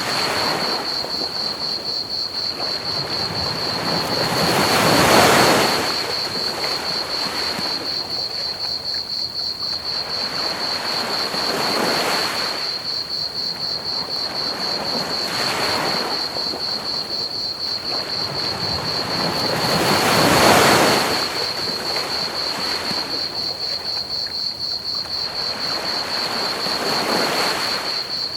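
Ocean waves washing onto a beach in slow swells, the two biggest about five seconds in and about twenty seconds in, over a steady high-pitched trill of chirping crickets and an even hiss of pink noise.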